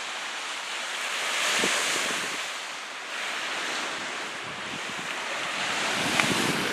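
Lake waves washing onto a sandy beach, with wind on the microphone. The surf swells about a second or two in, eases off, then builds again.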